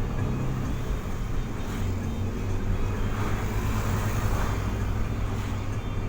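Car on the move: a steady low engine hum over continuous road noise.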